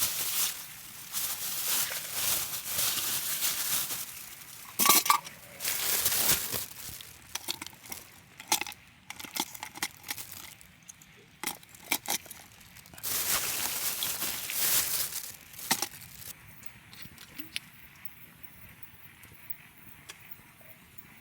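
Camp gear being handled: bursts of rustling with light clinks and knocks of metal or glass utensils, then quieter handling near the end.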